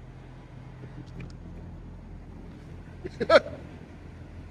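Steady low hum with a brief, high, voice-like yelp about three seconds in.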